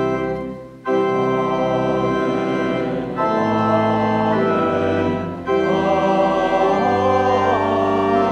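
Church organ playing sustained full chords. The chords change about a second in, again around three seconds and again around five and a half seconds, like a closing cadence.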